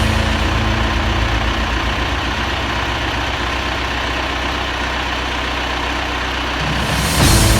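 Tractor engine idling steadily at low speed. Its low hum shifts slightly near the end.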